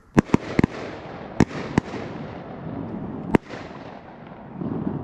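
A volley of shotgun shots: about six in quick succession in the first two seconds and one more a little over three seconds in, each followed by a long rolling echo across the open field.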